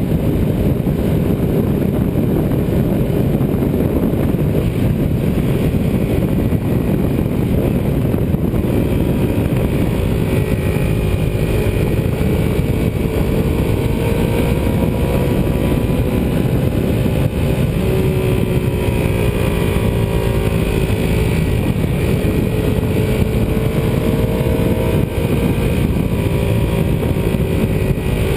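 Ducati 748R's L-twin engine running on the move at fairly steady revs, its pitch drifting gently up and down, under a heavy rush of wind noise.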